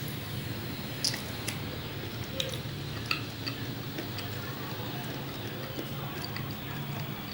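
A person chewing food, with irregular sharp wet mouth clicks and smacks over a low steady hum.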